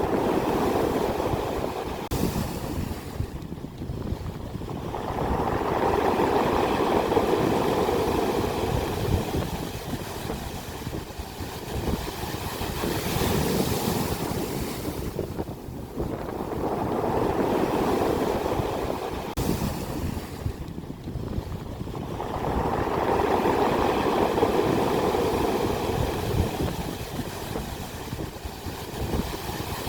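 Ocean waves breaking on the shore, each crash swelling and then drawing back over several seconds, with wind rumbling on the microphone.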